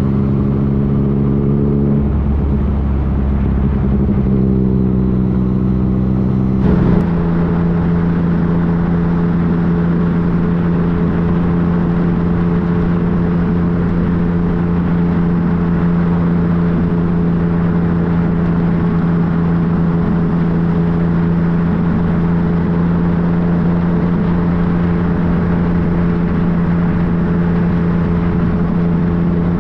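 Yamaha FJ-09's inline-three engine running at a steady cruising speed under a rush of wind noise. The engine note changes about two seconds in and again about seven seconds in, then holds steady.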